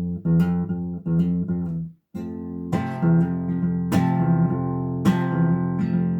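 Acoustic guitar: a few short picked bass notes, damped just before two seconds in, then a strummed chord left ringing and struck again about three more times, the bass walking F–E–F under an F major chord.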